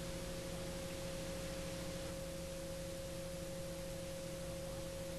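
Garrett TPE331 turboprop engines running steadily on the ground, a constant drone with a held tone over a steady hiss.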